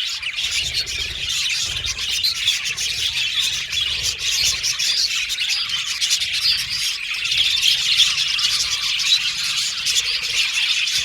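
A flock of budgerigars chirping and chattering together: a dense, unbroken tangle of high chirps and squawks from many birds at once.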